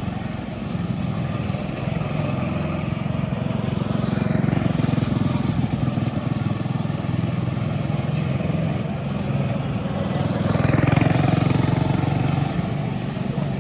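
Small racing go-kart engine running steadily, growing louder about ten seconds in.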